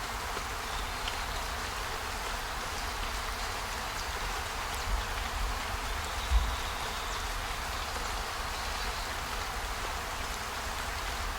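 Steady storm ambience: a constant hiss with a deep low rumble underneath, and two soft low thumps about five and six seconds in.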